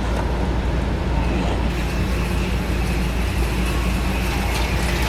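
HO-scale slot cars running on the track, their small electric motors giving a high whine that comes in about two seconds in, over a steady low hum.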